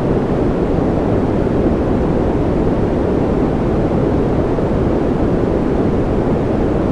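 Steady white-noise track for soothing babies to sleep: a deep, even hiss weighted toward the low end, with no changes.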